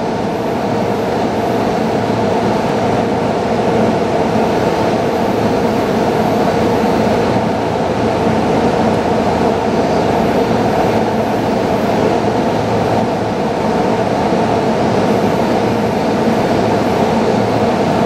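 Steady running noise of an approaching JR East E657 series limited express electric train: a constant hum with a few held tones.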